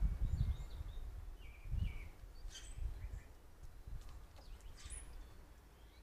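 Birds chirping in short calls and brief rising and falling notes, over a low, uneven rumble.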